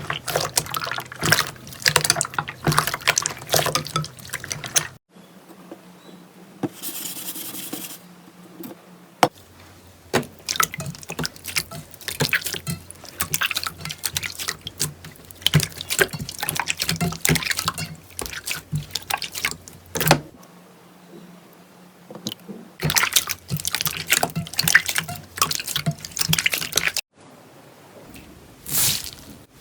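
Wet slime being squished and pressed by hand, with dense sticky clicking and crackling that comes in runs. Several abrupt changes to quieter, softer squishing stretches break up the runs.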